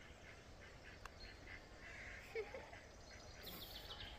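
Faint scattered bird chirps and calls, with one short, louder low call about two and a half seconds in and a quick run of high, ticking notes near the end.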